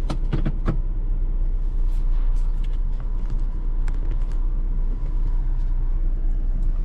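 Steady low rumble of a car heard from inside the cabin, with a few sharp clicks in the first second.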